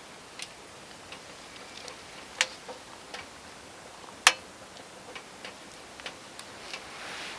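Wood fire crackling: irregular sharp pops and small ticks, with two louder pops about two and a half and four seconds in.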